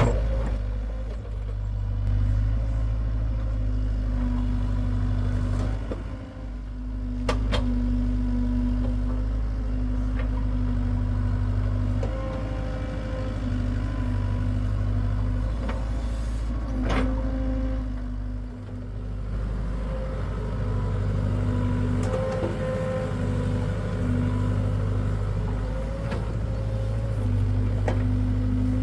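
Hitachi excavator's diesel engine running steadily with a low drone, a higher whine that comes and goes as it works, and two sharp knocks, one about a quarter of the way in and one a little past halfway.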